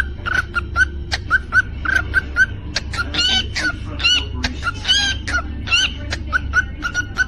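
Cockatiel chirping in a fast run of short repeated notes, with a few louder arched whistles in the middle, over a low steady hum.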